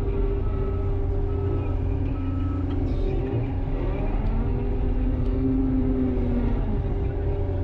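A heavy vehicle engine running steadily, with a constant low rumble and a held hum.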